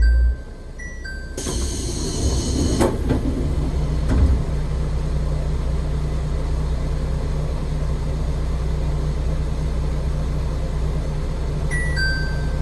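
AN-8800 diesel railcar's engine drops from a loud rumble to a steady low running hum as power is shut off. Short falling two-note electronic beeps sound at the start and again near the end. A brief hiss of air comes about a second and a half in.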